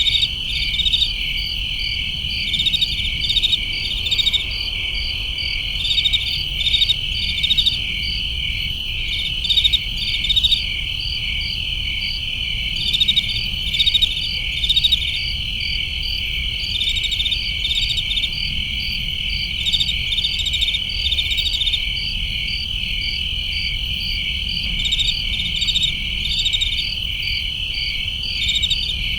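A chorus of crickets trilling steadily, with other insects chirping in short pulsing clusters over it, and a low rumble underneath.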